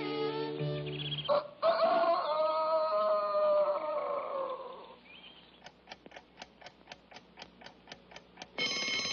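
Cartoon soundtrack: a loud held call or note sliding slightly down, then a clock ticking about five times a second, then an alarm clock bell starting to ring loudly near the end, the wake-up call for getting up early.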